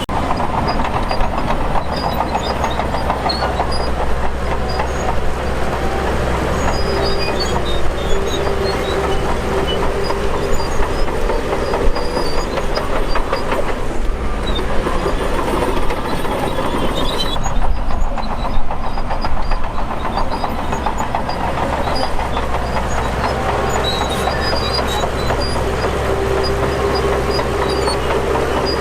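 Shantui DH17 crawler bulldozer working under load: a steady diesel engine with its steel tracks clanking rapidly and squealing in short high squeaks now and then.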